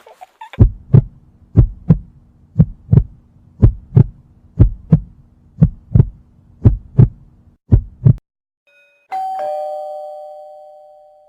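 Heartbeat sound effect: about eight double thumps, roughly one a second, over a low hum, stopping about eight seconds in. Then a two-tone ding-dong doorbell chime, a higher note followed by a lower one, ringing out and fading.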